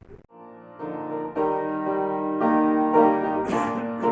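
Piano or keyboard music: slow, held chords that begin softly and swell about a second in, changing chord every second or so.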